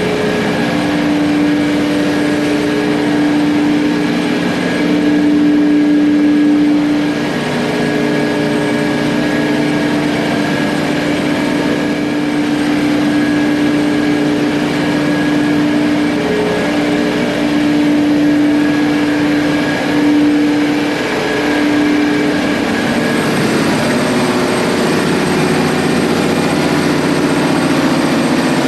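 Steady machinery drone aboard a cargo ship: a loud, continuous hum with one strong steady tone over a noisy background.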